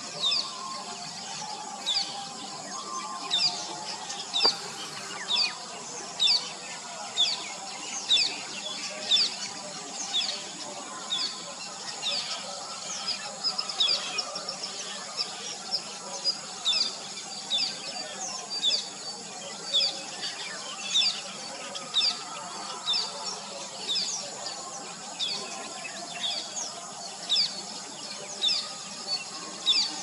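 Bird chirping repeatedly: short, high notes that sweep downward, about one or two a second, over a steady background hiss.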